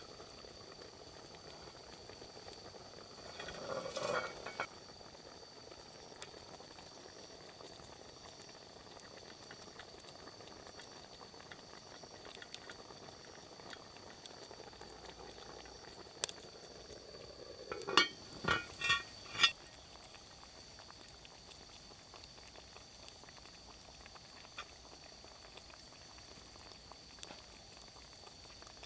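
Faint steady simmering hiss of a Dutch oven braise cooking over a campfire. A metal clank about four seconds in, and four quick ringing metal clinks about two-thirds of the way through.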